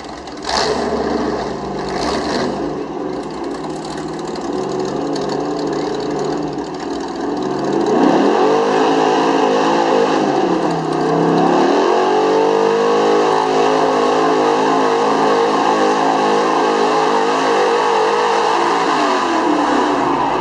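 Big-block V8 pickup engine revving hard under load in a truck pull. The revs climb sharply about eight seconds in, sag briefly, then hold high and steady.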